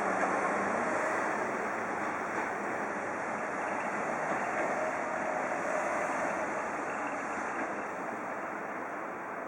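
Electric commuter train running on the tracks, a steady rumble and rush of wheels that slowly fades as the train moves away.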